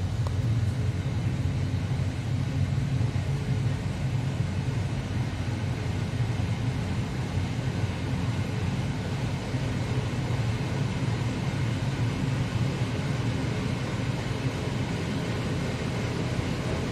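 Steady low rumble of a moving passenger train, heard from the rear of its last carriage: wheels and bogies running along the track at speed.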